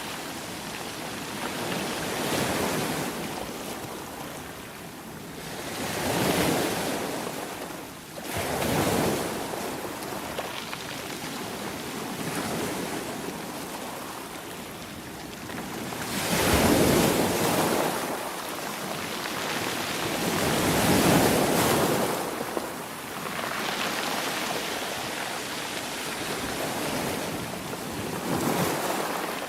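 Ocean waves breaking and washing on the shore, a steady hiss of surf that swells and falls away about six times, the loudest surges past the middle.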